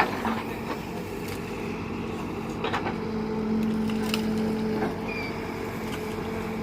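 Tractor diesel engine running at a steady speed, with a few sharp knocks and clicks scattered through it.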